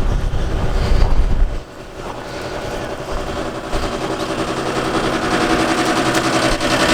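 Wind buffeting the microphone for the first second and a half, then an engine running with a rapid, even pulse that grows slowly louder.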